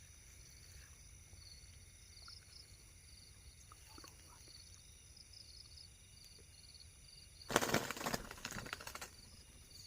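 Faint, steady chirping of night insects, then about seven and a half seconds in a loud burst of wing flapping and leaf rustling lasting about a second and a half, typical of a zebra dove beating its wings as it is grabbed.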